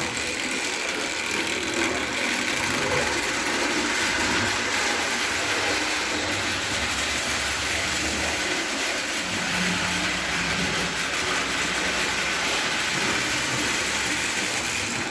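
Ives 3254 pre-war O-gauge electric toy locomotive with a cast-iron frame running steadily along the track.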